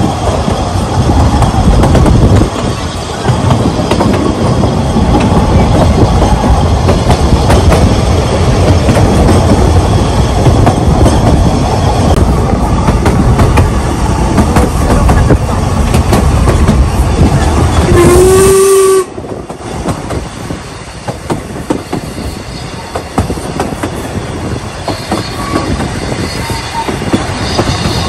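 Ffestiniog Railway narrow-gauge train running, a loud rumble with rapid clicking of the wheels over the rails. About two-thirds of the way through, the locomotive gives one short toot, and right after it the running noise drops much quieter and carries on with lighter clicking.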